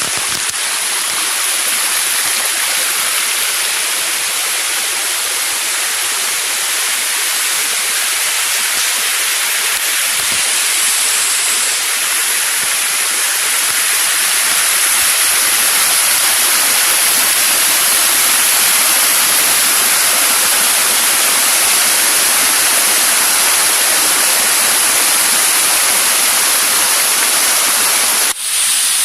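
Waterfall cascading down a hillside: a loud, steady rush of falling water, broken by a brief drop in level near the end.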